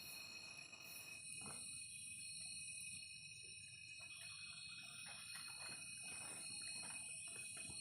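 Night insects, crickets among them, trilling in chorus: several steady high-pitched tones that keep going throughout. Faint scattered soft clicks and short rustles sound beneath them from about a second and a half in.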